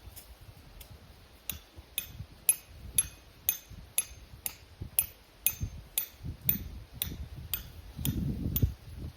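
Sharp knocks repeated at an even pace, about two a second, each with a short bright ring, over a low rumble of handling that swells near the end.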